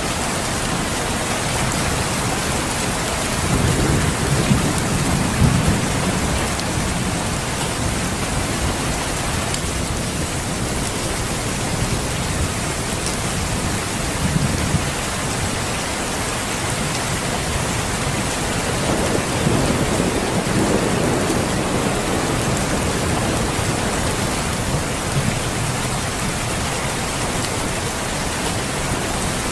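Steady rain hiss with slow rolls of thunder rumbling underneath: one a few seconds in, a short one near the middle, and a longer one about two-thirds of the way through.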